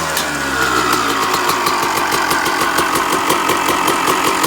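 1995 Honda CR250R two-stroke single-cylinder engine idling on its first run after winter storage, with a steady train of popping pulses. It sounds pretty good.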